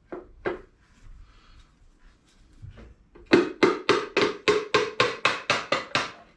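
Hammer blows on a Briggs & Stratton lawn mower engine during teardown: two single strikes, then a quick run of about a dozen ringing blows, roughly four a second, knocking a stuck part free.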